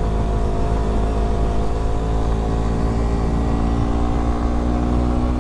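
Suzuki GSX Bandit 150's single-cylinder engine running at steady cruising revs while being ridden, its pitch easing slightly lower, over a heavy low wind rumble on the helmet or bike microphone.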